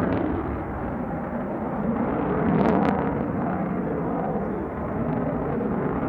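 Lockheed Martin F-35A Lightning II's single F135 afterburning turbofan running loud and steady, a deep rumble that swells a little about halfway through with a brief sharp crackle.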